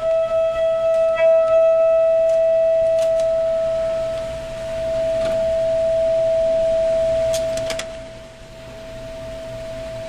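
Tibetan singing bowl ringing one steady, sustained tone with fainter higher overtones, pulsing at first. It dips and swells again about halfway through and fades about eight seconds in, with a few light clicks around it.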